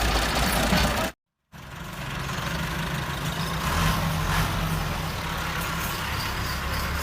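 Massey Ferguson tractor's diesel engine running steadily, cut off to complete silence for a moment a little over a second in, then running on.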